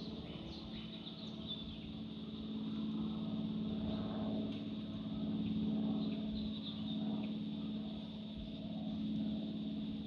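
A steady low mechanical drone that swells and fades a little, with birds chirping over it.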